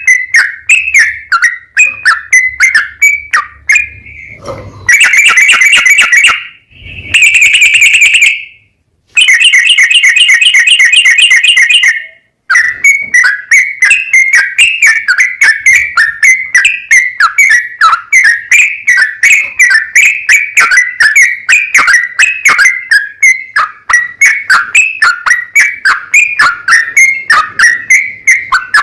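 Yellow-vented bulbul (cucak trucuk) singing: quick runs of repeated chirping notes, with long, very fast rattling trills between about five and twelve seconds in.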